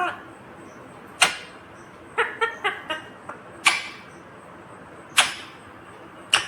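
Ringneck parrot giving four sharp, shrill call notes a second or so apart, with a quick run of short chirping notes between the first two.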